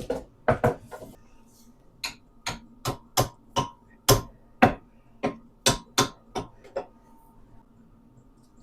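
Hammer tapping on metal: about fifteen sharp strikes with a short ring, unevenly spaced, stopping about seven seconds in.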